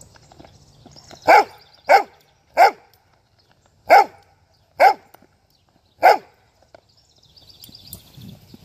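A dog barking six times, single sharp barks with uneven pauses between them.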